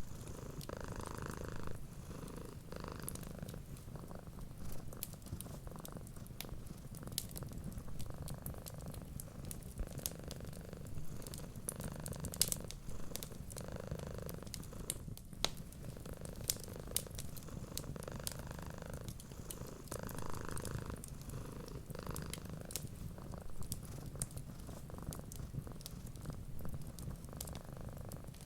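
Domestic cat purring steadily, with a low rumble that swells and fades about every two seconds. Small, sharp crackles from a wood fire are scattered over it.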